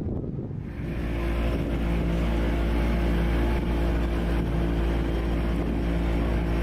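An engine running steadily, with a deep rumble and a constant hum that come in suddenly less than a second in.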